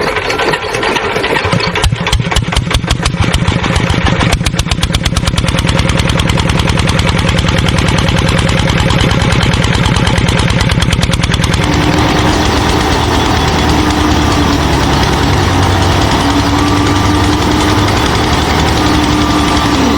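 Small engine of a DIY mini combine harvester running with a fast, even beat; a bit past halfway the sound shifts to a steadier drone with a thin whine over it.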